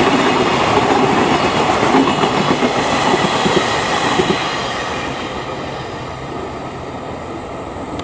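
Freight train rolling past, its wheels clattering over the rails, the sound easing off from about halfway through as the train moves away.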